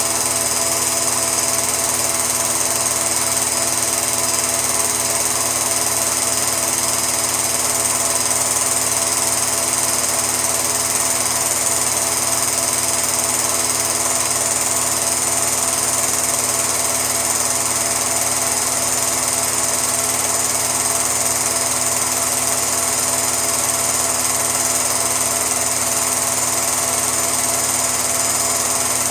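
Steady mechanical whirring drone with several constant hum tones, unchanging throughout.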